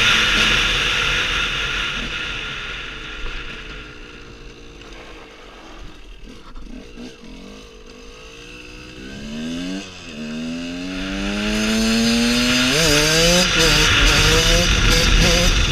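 KTM 125 EXC two-stroke single-cylinder engine: it runs loud, drops off to a quieter run for several seconds, then revs up in a rising whine, breaks off briefly about ten seconds in for a gear change, and climbs again as the front wheel comes up in a wheelie. Wind rushes over the helmet camera when the bike is at speed.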